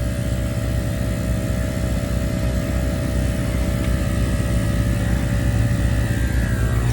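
Viair 440 portable 12-volt air compressor running steadily while inflating a 37-inch mud-terrain tire, partway from about 17 toward 30 psi.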